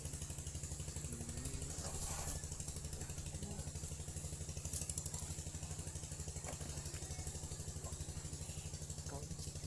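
A small engine idling steadily: a low hum with a fast, even pulse.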